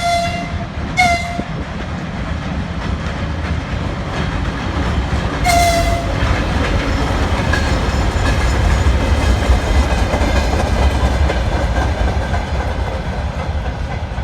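A train horn sounds a long blast that ends just after the start, then two short toots, one about a second in and one about five and a half seconds in. Under them runs the steady low rumble of a passing train, loudest around the middle and fading toward the end.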